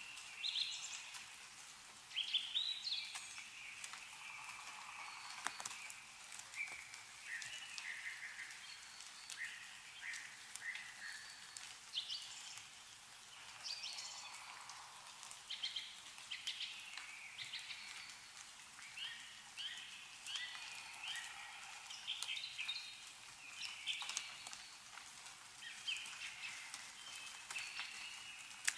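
Small birds chirping and twittering, many short calls one after another, with scattered light drips of melting snow falling from the trees.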